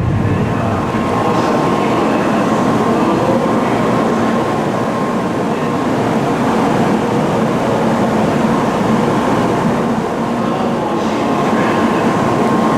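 Cabin noise inside a passenger car of an N700 series Shinkansen train running at speed: a steady rumble of wheels and air, with a faint steady whine.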